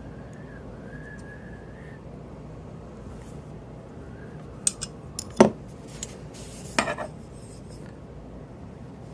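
Small metal clicks and clinks from a Spyderco Para Military 2 folding knife and its small tools being handled while it is taken apart. A couple of light clicks come about halfway through, then one louder, sharper clack, then a short cluster of clinks.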